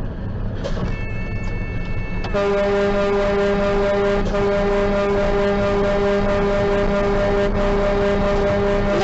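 A brief high-pitched beep about a second in, then a loud, steady air-horn blast starting about two seconds in and held without a break.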